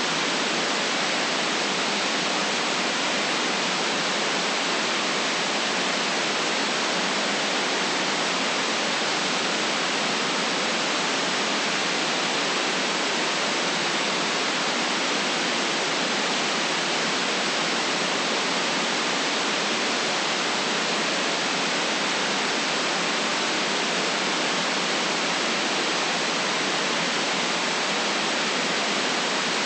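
Steady synthetic white noise: an even, unchanging hiss cut off below about 150 Hz and above about 8 kHz, with no other sounds.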